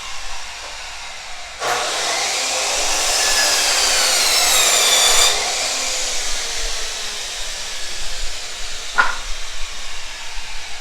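Chop saw cutting a wooden board at an angle. A louder cut runs from about a second and a half to five seconds in, its whine bending in pitch under the load, over a steady hiss. A single sharp click comes near the end.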